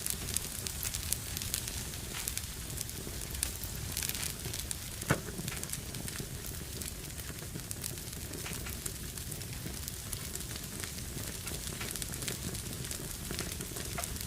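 Fireplace fire crackling: a steady hiss with many small pops, and one louder pop about five seconds in.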